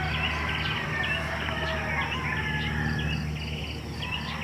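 Small birds chirping and insects trilling in repeated short bursts, over a steady low hum.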